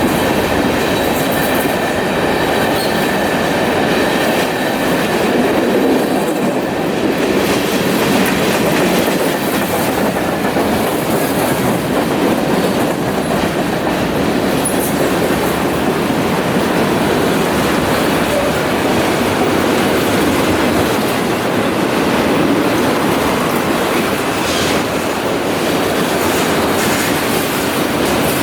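Freight train cars rolling past, a steady rumble and clatter of steel wheels on the rails, with a faint high wheel squeal in the first few seconds.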